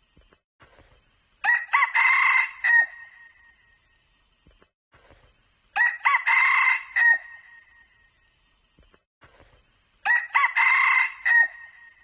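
Red junglefowl cock crowing, a short clipped crow repeated three times at even intervals about four seconds apart.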